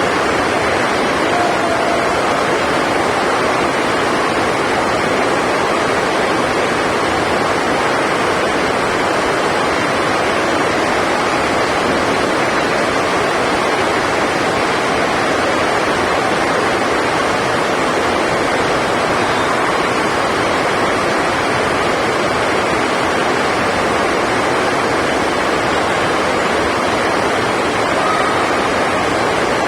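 Heavy rain on the sports hall's roof: a loud, steady, unbroken roar.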